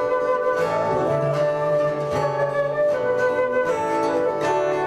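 Instrumental break in a folk song: a flute-like wind melody played over strummed acoustic guitar.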